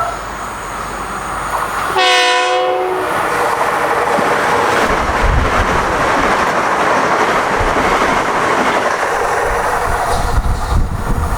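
A train sounds its horn once, about two seconds in, for roughly a second. It then passes at speed with a loud, steady rushing of wheels on rail and a low rumble, and a few sharp knocks near the end.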